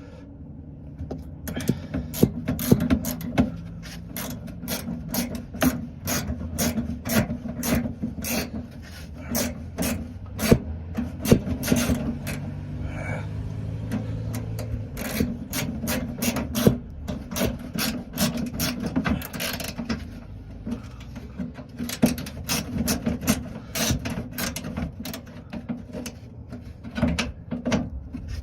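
Hand ratchet wrench clicking in quick runs of strokes as bolts are driven in.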